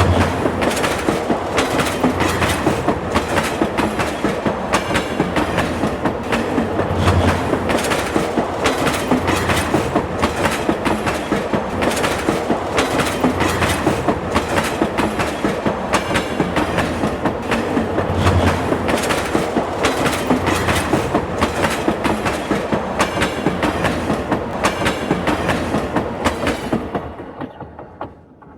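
Train rolling on the rails, its wheels clattering in a steady rhythm over the rail joints with a continuous rumble beneath. It fades out near the end.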